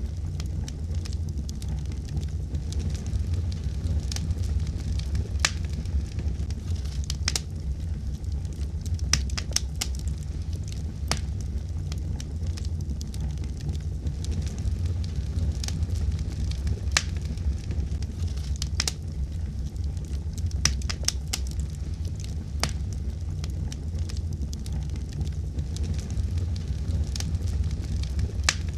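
Wood fire in a fireplace crackling steadily: irregular sharp pops and snaps a few times a second over a low steady rumble of the flames.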